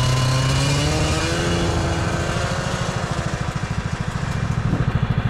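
Snowmobile engine running at high revs, its pitch slowly easing down and settling into a lower, pulsing beat near the end.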